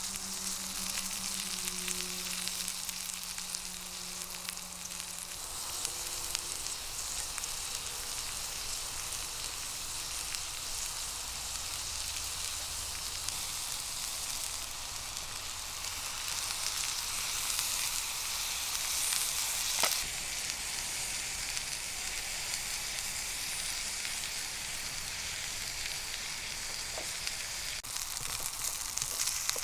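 Onions frying in a pan, sizzling steadily, with a low hum for the first few seconds and a single sharp click about twenty seconds in.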